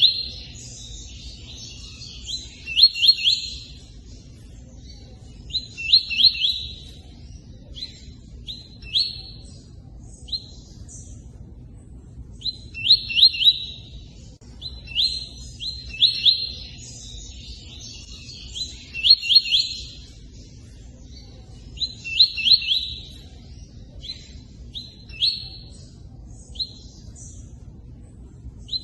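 Tui-tui songbird singing its cut song in short bouts of quick high notes, one bout every few seconds with pauses between, over a steady low sound of running water.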